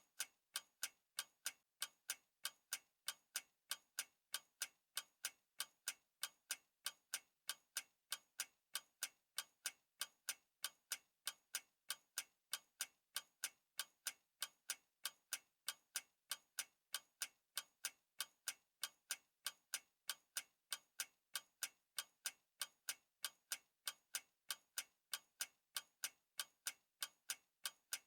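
Clock ticking steadily, with sharp, evenly spaced ticks, a few a second, that do not vary.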